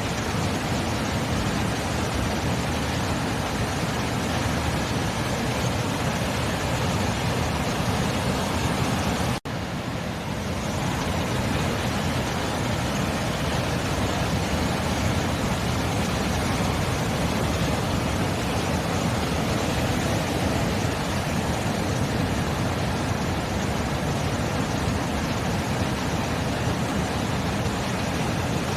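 Continuous, even rush of sea surf. It drops out for an instant about nine seconds in, then carries on as before.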